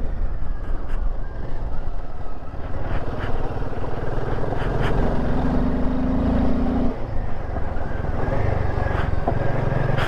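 Royal Enfield Himalayan 450's single-cylinder engine running while riding over broken road. Its pitch steps up and down a few times, with scattered light clicks.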